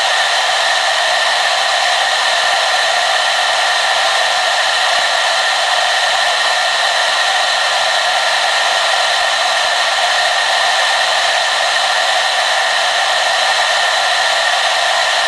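Hair dryer running continuously on a steady setting: an even rush of blowing air with a constant whine from its motor and fan.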